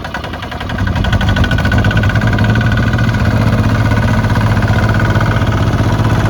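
Kubota ZT155 single-cylinder diesel engine running loud; it speeds up about a second in, then holds a steady speed.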